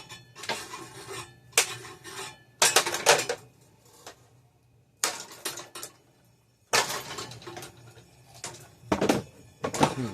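Spinning ceiling fan blades smashing into an RC controller: a string of sharp, clattering hits at irregular intervals, some coming in quick clusters, with a faint low hum under them.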